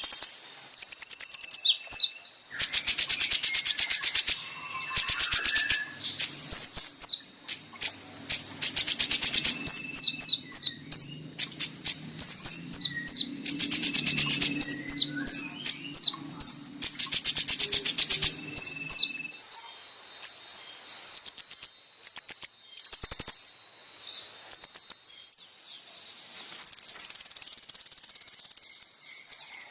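Olive-backed sunbird (kolibri ninja) song on a birdsong training recording: rapid high-pitched chips and fast buzzy trills, with a long unbroken high trill starting near the end.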